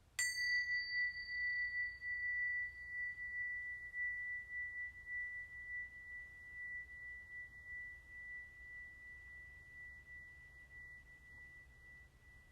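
A small metal bell-type instrument struck once just after the start. Bright overtones die away within a couple of seconds, and one clear high tone rings on, wavering gently as it slowly fades.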